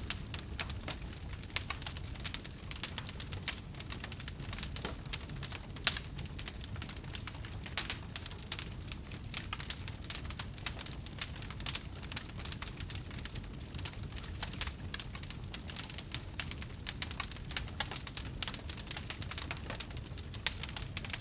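Wood fire burning, with dense irregular crackling and pops over a steady low roar of the flames.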